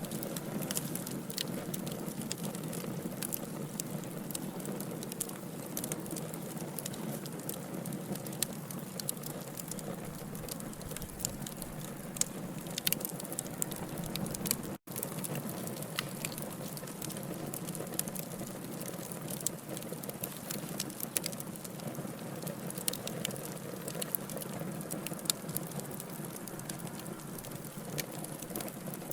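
Log fire burning: a steady low hiss with frequent sharp crackles and pops from the burning wood. The sound cuts out for a split second about halfway through.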